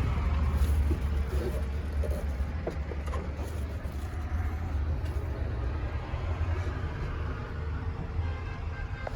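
Truck engine running steadily, a continuous low rumble.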